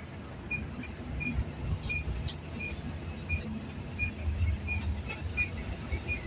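Low engine and road rumble from inside a moving road vehicle, with a regular high-pitched ticking about three times a second.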